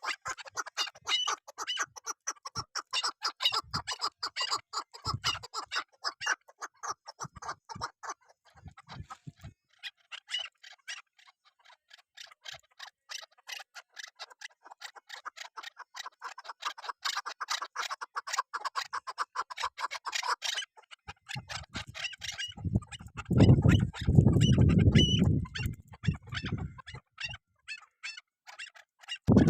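Chukar partridge calling in rapid runs of short chattering notes, many to the second, which thin out briefly and stop about two-thirds of the way through. A loud low rumble follows for a few seconds near the end.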